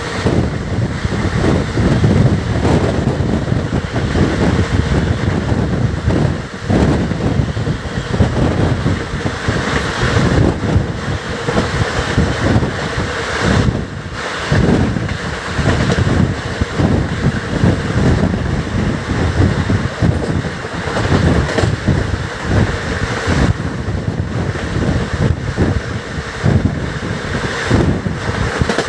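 Express passenger train running at speed, a steady rumble of the coaches under heavy wind buffeting the microphone.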